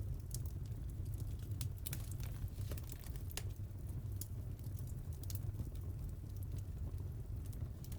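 Wood fire crackling in a fireplace: irregular sharp pops and snaps, busiest a couple of seconds in, over a steady low rumble of the flames.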